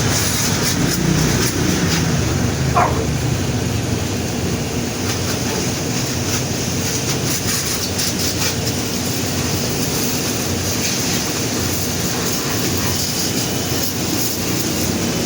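Car wash running: a steady rush of water spray over a low mechanical rumble.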